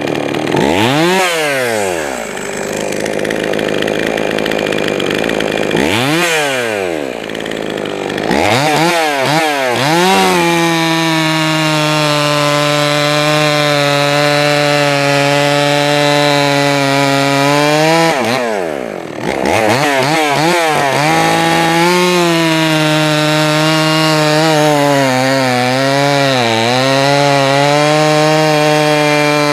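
Jonsered 525 two-stroke chainsaw, its carburetor's low-speed mixture and idle just adjusted, revved in a few quick blips and then held at full throttle twice for several seconds each. It drops back in between and wavers slightly during the second run. It takes throttle cleanly and runs well.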